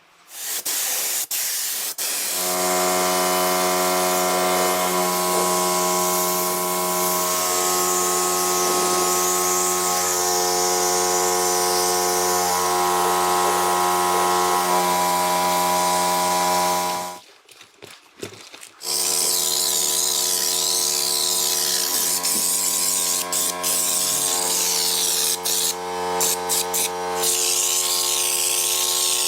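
A power tool's electric motor running at a steady speed with a hiss. It stops for about two seconds partway through, then starts again.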